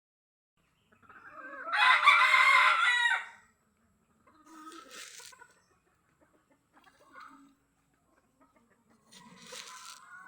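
A rooster crowing once, loudly, about a second in, followed by quieter, shorter calls from the chickens.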